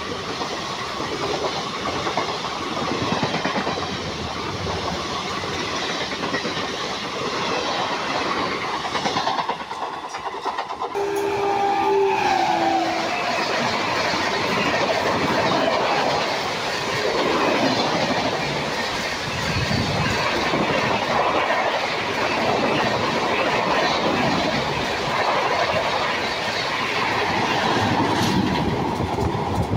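Express passenger train coaches passing at speed, wheels clattering over the rail joints with a steady rushing noise. About ten seconds in the sound breaks off and a short horn note sounds. Then the coaches of a second express, hauled by a WAP7 electric locomotive, rush past a platform.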